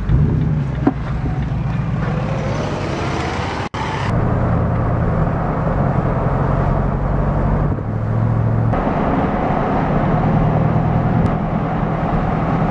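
Stripped-down 1995 Chevy Silverado pickup under way on the road, its engine running steadily with road noise. The engine note rises between about two and four seconds in, and the sound breaks off for an instant just before four seconds.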